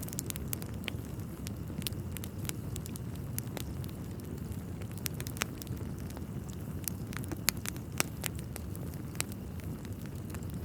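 Wood fire burning in a fireplace: irregular sharp crackles and pops over a low, steady rumble, with two louder pops about three-quarters of the way through.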